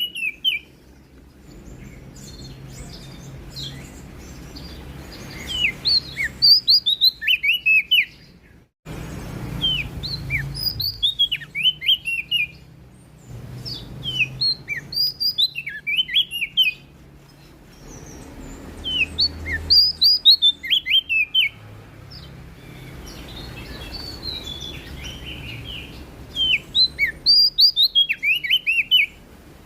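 Prenjak daun songbird singing in repeated bursts of quick, high, falling chirps, each burst one to three seconds long and coming every few seconds, over a faint low hum.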